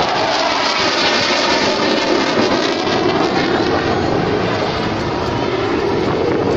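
Jet fighter passing overhead, likely a JF-17 Thunder with its single turbofan: a loud, steady roar that swells just as it begins and slowly drops in pitch as the aircraft goes by.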